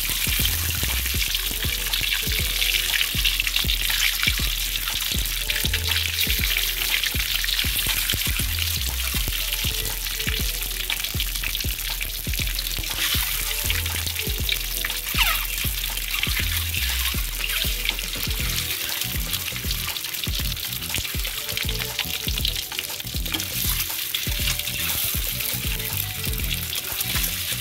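Hot oil sizzling steadily as whole peeled boiled eggs fry in a steel wok and are turned with metal tongs, with frequent light clicks. Background music with a low bass line plays under it, fading about two-thirds of the way in.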